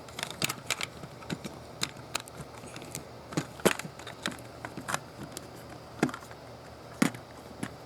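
Small, sharp plastic clicks and taps from LEGO pieces being handled, coming irregularly a dozen or so times, as the car's adjustable rear spoiler and body are moved.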